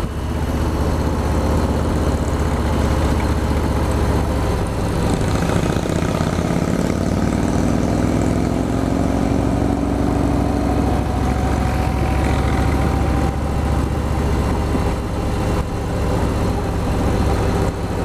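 Harley-Davidson V-twin motorcycle engine running steadily while riding, a loud low rumble with a rising tone about a third of the way in.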